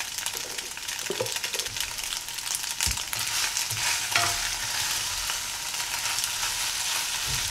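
Penne pasta and chopped vegetables sizzling in oil in a saucepan while being stirred with a plastic spatula, which scrapes through the pasta and knocks against the pan a few times.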